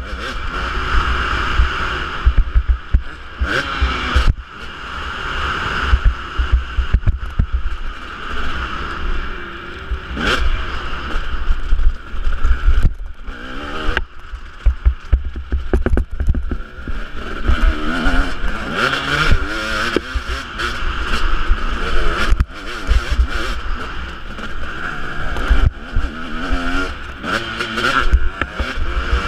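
Husqvarna 250 two-stroke motocross bike running hard, its engine revving up and falling back again and again, with heavy wind buffeting on the microphone.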